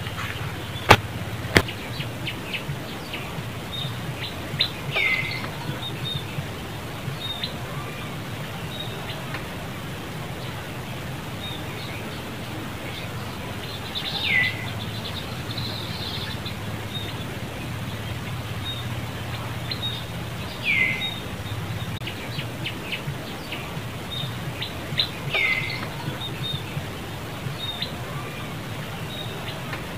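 Birds calling: a short call sweeping down in pitch, heard four times at intervals of several seconds, with scattered short high chirps over a steady low background noise. Two sharp clicks sound about a second in.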